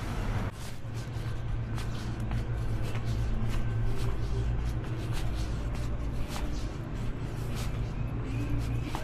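Motorcycle engine running steadily as a low hum, with many short sharp ticks scattered over it.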